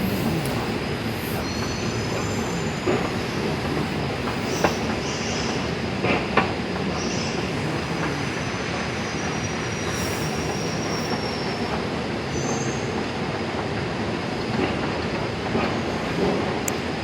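Delhi Metro train running on its rails: a steady rumble with faint, high wheel squeals now and then and a few sharp clicks.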